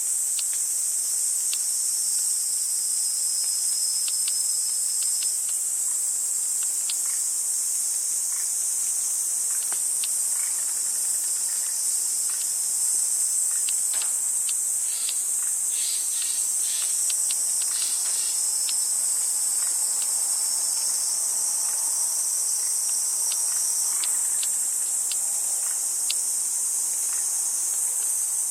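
A steady, high-pitched chorus of insects, with faint scattered ticks and short chirps through it.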